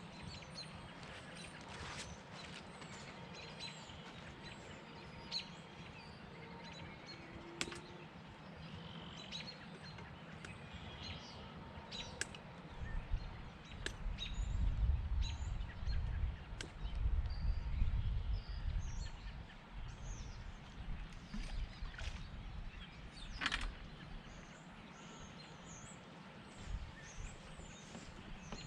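Songbirds chirping and calling, with gusts of wind rumbling on the microphone from a little before halfway through until about two-thirds of the way in, and a few sharp clicks.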